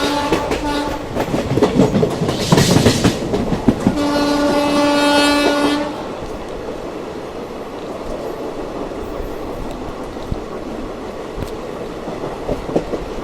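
Train horn sounding: a blast that ends about a second in, then a second, two-second blast about four seconds in, over wheels clattering on the rails. After the horn stops, the train runs on with a steady rumble and the clack of wheels over rail joints.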